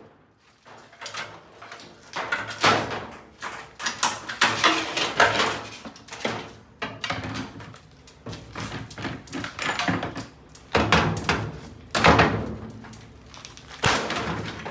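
Repeated heavy blows on an old top-load washing machine, a dozen or so bangs and clatters at irregular intervals, each with a short ringing tail.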